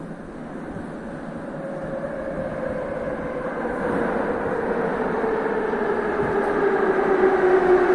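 Metro train coming into the station and braking: its motor whine slides steadily down in pitch while the rumble grows louder as it draws near.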